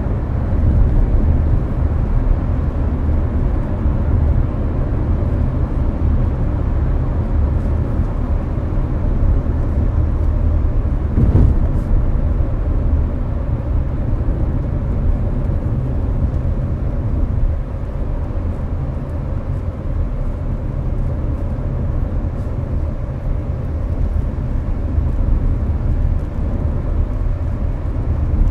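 Steady low road and tyre rumble inside a Hyundai Avante's cabin at expressway speed, mixed with the air conditioner blowing. There is a brief thump about eleven seconds in.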